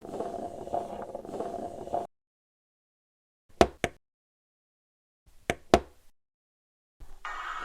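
Two pairs of sharp knocks, the two in each pair about a quarter of a second apart and the pairs about two seconds apart, with dead silence around them. A short stretch of noisy background with a faint hum comes first.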